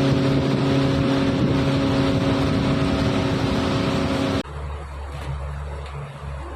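Boat engine running steadily with a constant low drone. About four seconds in the sound cuts off abruptly to a quieter low hum.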